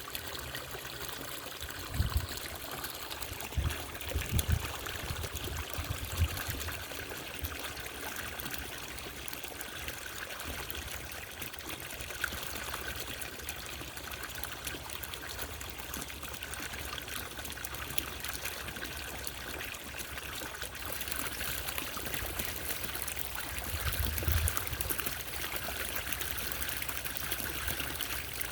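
Small solar fountain's water trickling steadily, with a few short low thumps scattered through.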